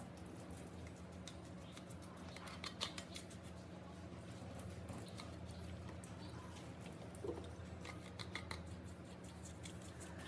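Light, intermittent metal scraping and clicking from a hand scraping tool chipping hardened carbon off the cylinder head's valve seats, over a steady low hum.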